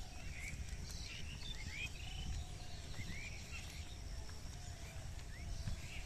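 Small birds chirping: short upward-sweeping calls repeated every second or so over a steady low rumble.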